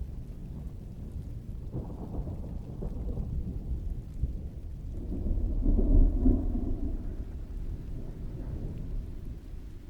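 Low rolling thunder that builds to its loudest about six seconds in and then fades, over steady rainfall.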